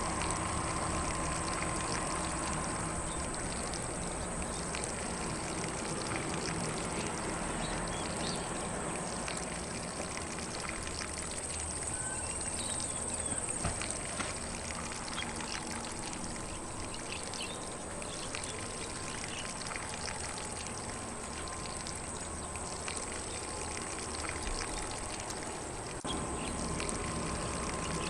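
Lawn sprinkler spraying water, a steady hiss and patter of droplets on grass, with faint birdsong.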